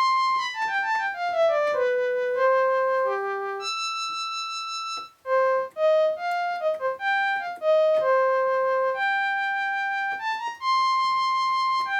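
Roland JX-3P synthesizer, upgraded with the Kiwi-3P board, playing its flute preset. A single-line melody opens with a quick falling run of notes, then moves on as a tune of short and held notes.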